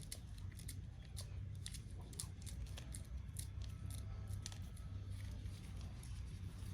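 Meat being cut up with scissors: a run of irregular sharp snips, over a steady low hum.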